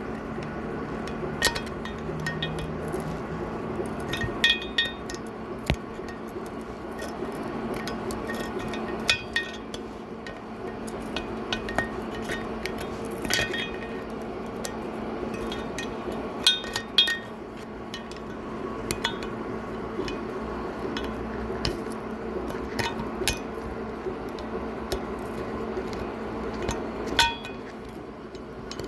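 Hand tools clinking against the valve parts of a Toyota 2TR cylinder head while its valve stem seals are removed: about a dozen sharp, irregular metal clinks, some ringing briefly, over a steady hum.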